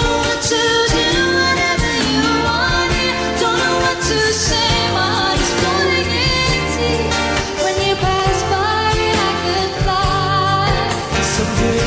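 Live pop music: a singer holding wavering, sustained notes over a full band accompaniment.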